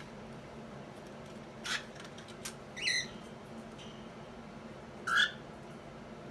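Cockatiels giving three short, high chirps spread over a few seconds, with a faint click between the first two.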